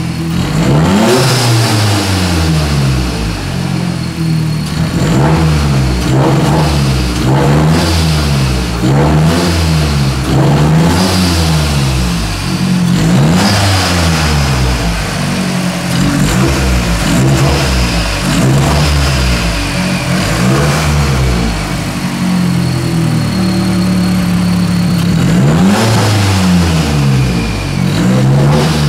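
A 2008 Mazdaspeed 3's turbocharged 2.3-litre four-cylinder, on a freshly built engine with a turbo-back exhaust, running just after its first start-up. Its engine speed swings up and down over and over, about once a second.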